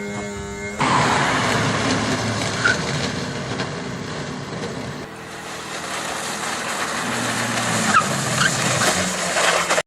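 Dense, steady car noise that comes in abruptly about a second in, dips slightly around the middle and builds again toward the end.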